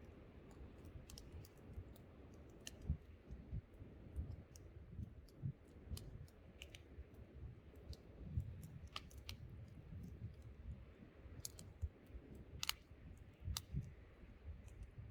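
Wood campfire crackling, with irregular sharp pops and snaps scattered through, a few louder ones among them, over a low, gusting wind rumble.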